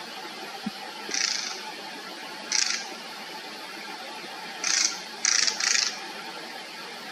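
An animal giving five short, harsh, high calls: two spaced apart, then three in quick succession near the end, over a steady hiss.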